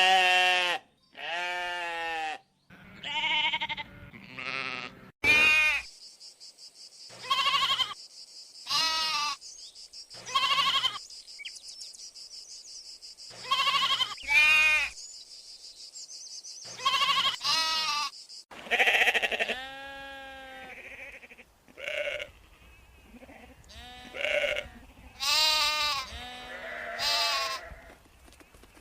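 A farm animal calling over and over: about twenty short pitched calls, each under a second, with a steady high hiss behind them through the middle stretch.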